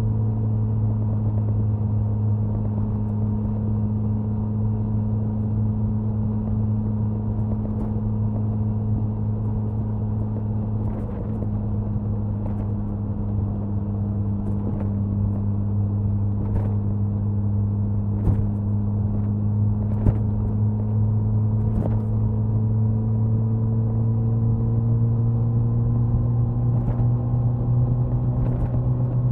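Suzuki Hayabusa inline-four motorcycle engine and exhaust cruising at a steady speed, its note holding nearly constant and climbing slightly near the end. A light click sounds about every couple of seconds through the middle.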